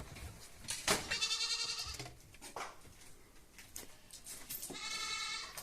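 A goat bleating twice, each bleat about a second long with a wavering pitch, the second near the end.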